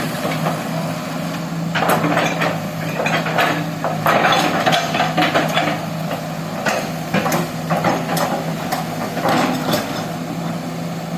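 Excavator engine running steadily under irregular knocks and crackling as the machine works the ground.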